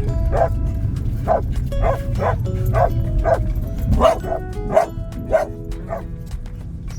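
A dog barking over and over, about two short barks a second, over a low rumble of car and road noise that fades about four seconds in, with background music.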